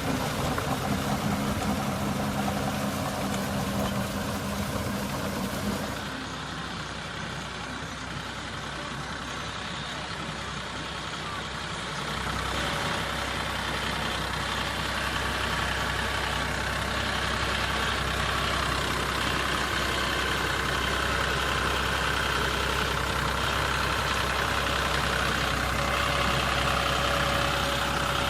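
An engine running steadily. Its sound changes abruptly about six seconds in, and a steady low hum joins about twelve seconds in.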